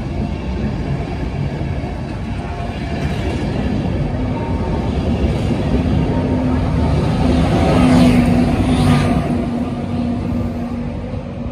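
InterCity 225 train (Class 91 electric locomotive with Mk4 coaches) passing at speed: steady rumble of wheels on rail with an electric hum, growing louder to a peak about two-thirds of the way through, then easing.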